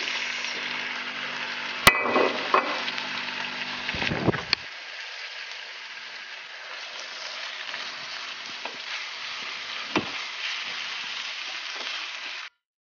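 Raw chicken strips sizzling as they fry in a stainless steel pan with bacon, mushrooms and onion, stirred with a wooden spoon. There is a sharp knock about two seconds in, the sizzle is softer after about four seconds, and it cuts off suddenly near the end.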